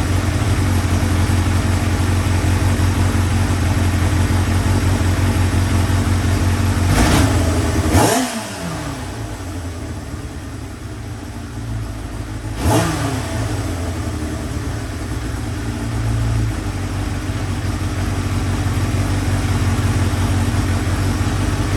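Carbureted motorcycle engine running, its throttle blipped twice, about seven and again about twelve seconds in, the revs falling back quickly each time. The vacuum leak has just been fixed, but the carburetors still need to be synchronized.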